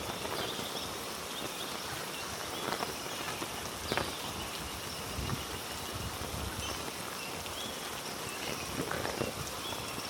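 Heavy rain falling steadily through rainforest, with footsteps on a wet trail and a few sharper knocks or drips.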